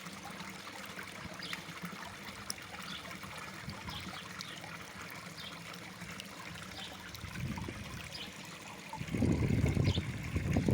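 Water trickling and splashing steadily from a small garden waterfall into a koi pond, with faint drip-like ticks. Near the end a louder low rumble of wind buffeting the microphone comes in.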